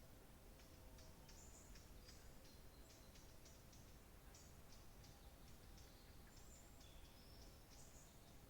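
Faint birdsong: a run of quick, high chirps and short whistled notes from small birds over a low steady hiss.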